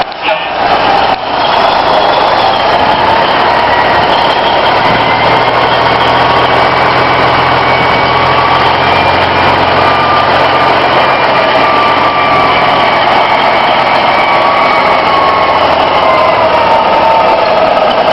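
Truck engine running loud and steady, its pitch drifting slowly up and down, with two brief drops in level in the first second or so.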